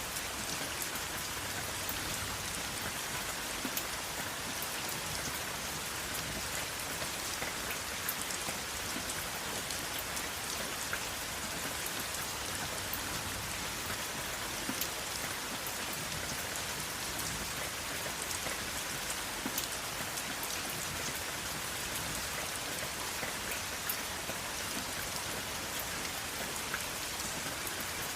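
Steady rain falling on a surface, with a continuous hiss and many individual drops ticking through it; no thunder.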